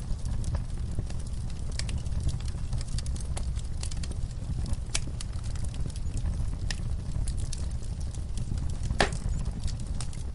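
Wood fire burning in a fireplace, crackling and popping irregularly over a low, steady rumble, with one louder pop about nine seconds in.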